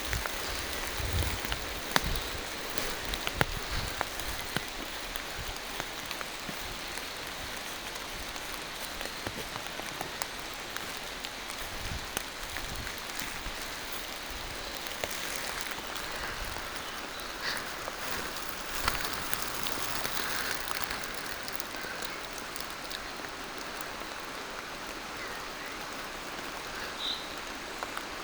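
Steady rain falling through forest trees, an even patter with many close, sharp drop ticks. A few short high bird chirps near the end.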